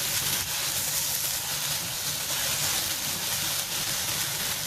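Rice and vermicelli frying in a pot with onions and tomato paste, sizzling in a steady hiss.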